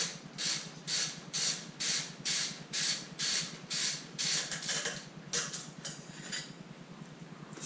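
Socket ratchet wrench clicking in steady strokes, about two a second, as a bolt is loosened while the exhaust is taken off. The strokes turn uneven and stop about six seconds in.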